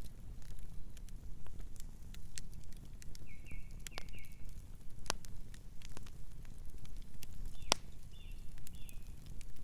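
Wood fire crackling, with irregular sharp pops over a low steady rumble and one louder pop about three-quarters through. A bird chirps in two short bursts, a few seconds in and again near the end.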